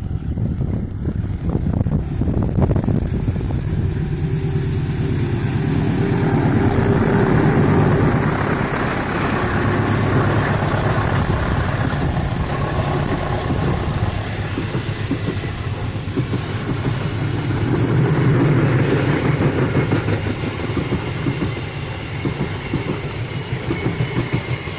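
A KAI CC201 diesel locomotive and its train passing close by: a loud, continuous rumble of the diesel engine and wheels on the rails, with clattering. It swells twice, about a third of the way in and again near three quarters.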